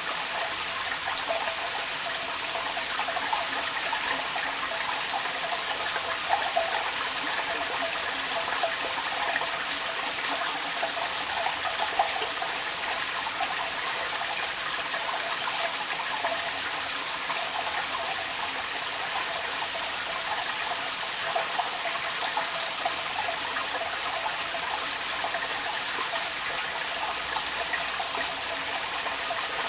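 Rainwater running out of a downpipe, with rain falling around it: a steady, even rush of splashing water with small irregular splashes through it.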